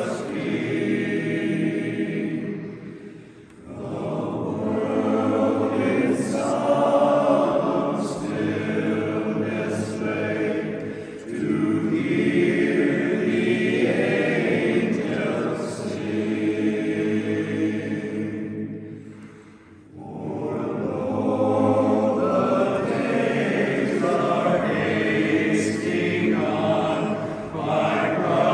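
Barbershop chorus singing a cappella in close harmony, in long sustained phrases that break briefly about three seconds in and again just before twenty seconds in.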